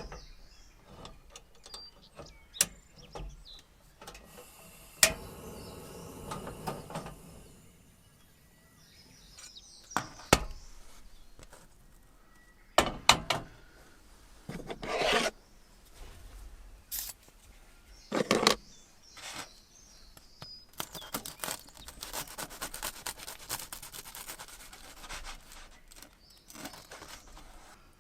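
Hand-handling noises: a scattered series of sharp clicks and knocks, with several stretches of scraping and rubbing, the longest near the end, and faint bird chirps behind.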